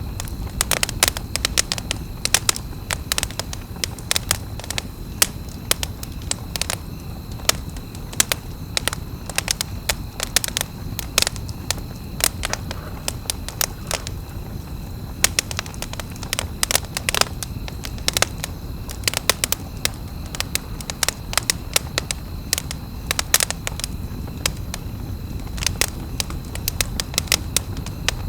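Wood campfire crackling: many sharp, irregular pops and snaps of burning wood over a steady low rumble of the flames.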